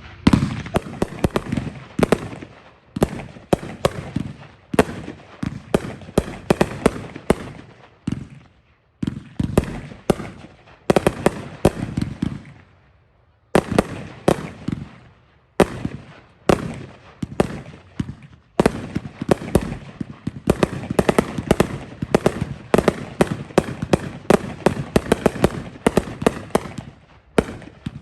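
A consumer fireworks finale of three chained cakes firing: rapid volleys of launch shots and aerial breaks, with a few short pauses between volleys.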